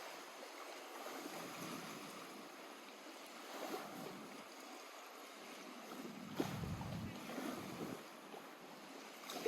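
Small lake waves lapping and splashing against the shore, with a sharper slap about six seconds in. Gusts of wind buffet the microphone in the second half.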